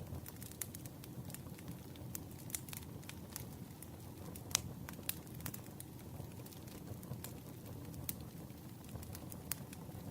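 Campfire crackling: irregular sharp pops and snaps over a low, steady rumble of burning wood, with one louder pop about four and a half seconds in.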